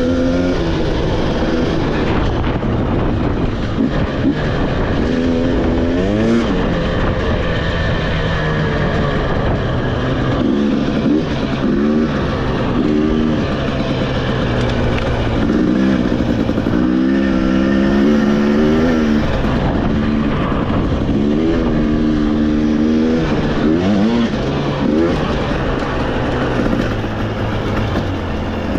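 Trail motorcycle engine running under way, its pitch rising and falling again and again as the throttle opens and closes.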